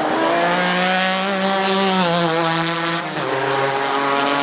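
Nissan 370Z's 3.7-litre V6 pulling hard, its pitch climbing. About three seconds in the pitch drops sharply, as on an upshift, then starts climbing again.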